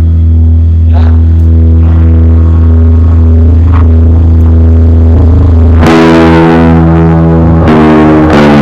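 Distorted electric guitar holding loud, sustained low chords, moving to a new chord about six seconds in and again near the end.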